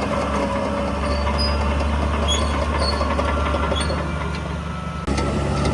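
Diesel engine of heavy earthmoving machinery running steadily, with an abrupt change in the sound about five seconds in.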